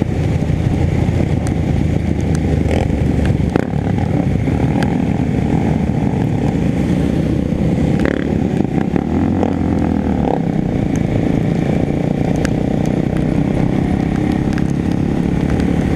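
Motorcycle running steadily under way, with a dense, loud rushing noise over the engine.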